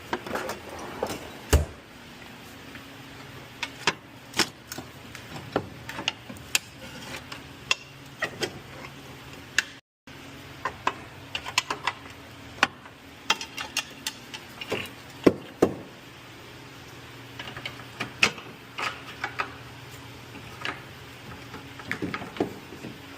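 Irregular metal clanks, clicks and knocks of hand tools working a car's lower control arm off the steering spindle, over a steady low hum.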